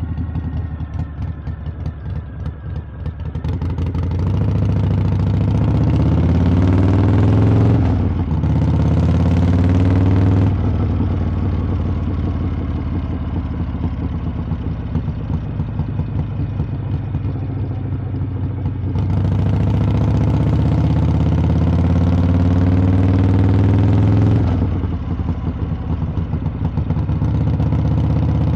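Harley-Davidson V-twin motorcycle exhaust heard from the saddle while riding. The engine note climbs in pitch under throttle about four seconds in, dips briefly and climbs again, then settles into a steady cruise. It swells once more under throttle later on and backs off near the end.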